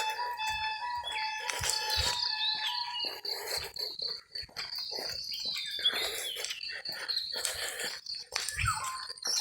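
Several birds chirping and calling at once, a mix of steady high notes and short gliding calls.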